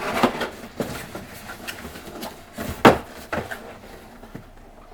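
Table fan and its cardboard packaging being handled and lifted out of the box: scraping and rustling at first, then scattered light knocks and one louder thump about three seconds in.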